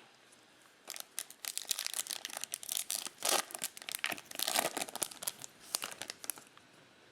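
Plastic foil wrapper of a trading card pack being torn open and crinkled: a dense run of sharp crackling rustles starting about a second in and stopping about six seconds in.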